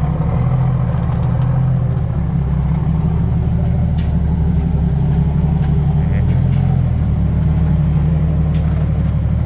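Heavy diesel engine running steadily, a continuous low drone with no change in pace.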